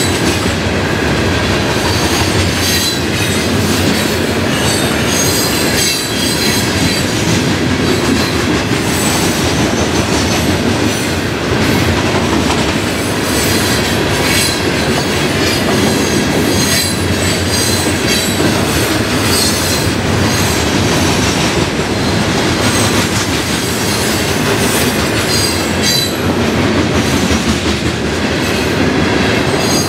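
Florida East Coast Railway freight train of covered hopper cars rolling steadily past, wheels clacking over the rail joints with scattered high-pitched wheel squeal.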